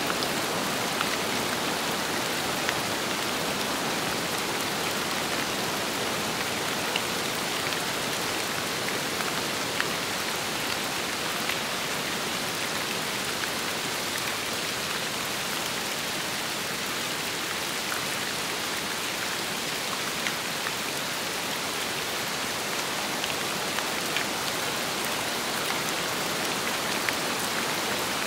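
Steady rain falling, an even hiss with scattered sharper drop taps every second or so.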